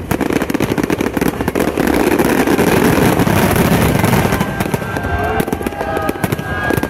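A barrage of aerial fireworks shells bursting, a dense run of crackles and bangs that swells to its loudest about halfway through and then thins out.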